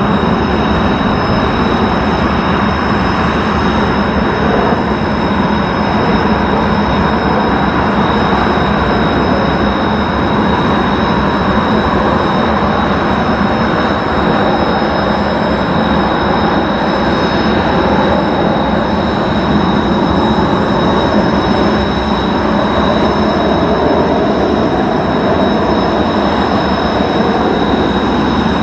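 F-35A jet engine running steadily, a loud even roar with a high, steady whine on top.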